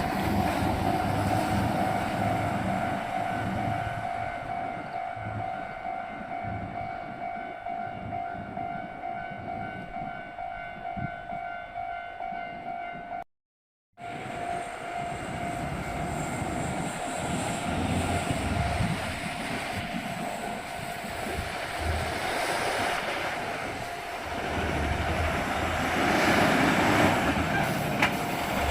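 Heavy limestone-hauling double-trailer trucks running along a haul road: a steady high whine over a rumbling road noise that swells as the rigs pass. The sound cuts out briefly about halfway through.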